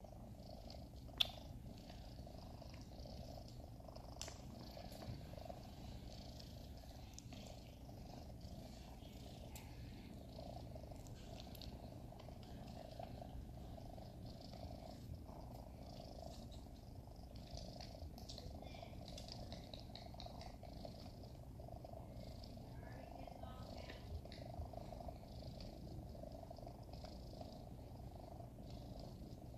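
Sphynx kittens purring steadily and softly, with a sharp click about a second in and a smaller one about four seconds in.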